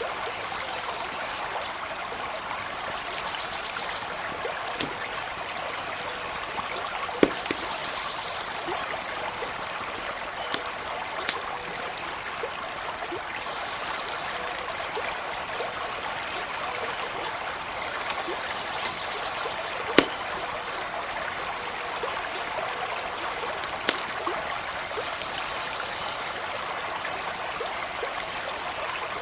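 A stream running steadily, with the occasional sharp crackle or pop of a campfire, the loudest about seven and twenty seconds in.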